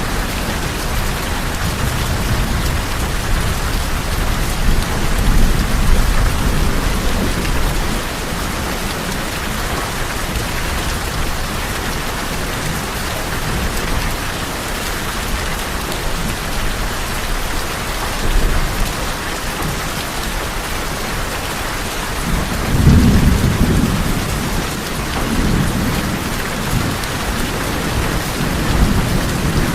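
Steady rain falling on a tin roof, with low rumbles of thunder, the loudest about two-thirds of the way through and more rumbling near the end.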